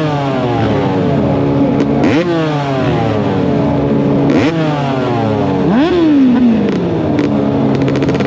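Motocross bike engine revved in three quick throttle blips, each rising sharply in pitch and falling back, over the steady note of an engine idling.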